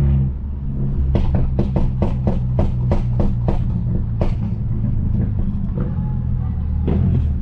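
Straight-piped turbocharged Mercedes-Benz C250 exhaust popping: a quick string of about ten sharp, gunshot-like pops, roughly three a second, with one more pop near the end. A steady low engine drone runs underneath.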